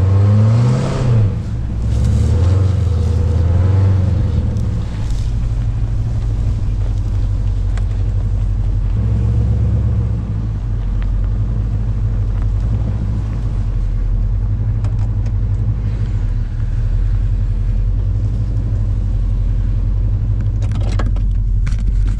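Truck engine revving up and back down about a second in, then running steadily at low speed.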